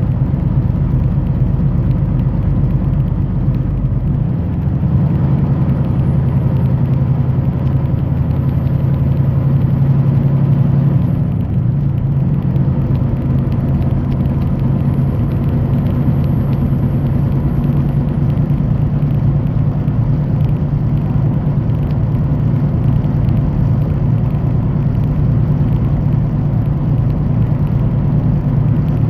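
Semi truck driving: a steady low drone of engine and road noise.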